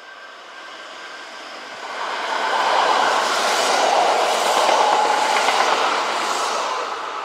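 Kintetsu electric train running past, its noise building for about two seconds, holding loud for about three, then fading away.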